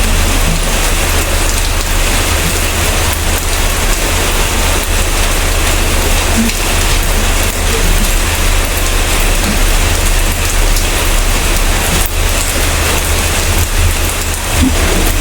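Steady rain: a dense, even hiss with a constant low rumble underneath.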